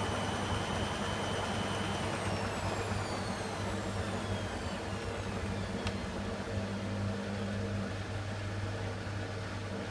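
Blomberg WMI7462W20 washing machine's drum motor running with a hum and a high whine that holds steady, then from about two seconds in falls steadily in pitch as the drum slows. A single sharp click near the middle.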